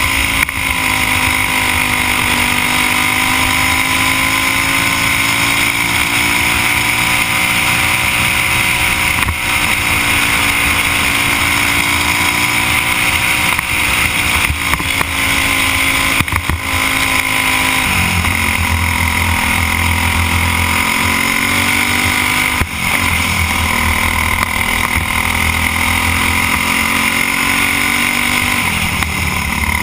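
Briggs & Stratton Animal kart engine, a single-cylinder four-stroke, running hard at racing speed. Its pitch rises and falls with the throttle, dropping sharply about eighteen seconds in and again near the end, over a steady rushing noise.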